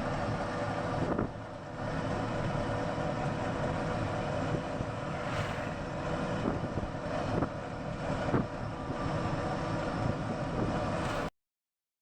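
Steady noise of a moving vehicle with wind on the microphone, a few light knocks through it, cutting off suddenly near the end.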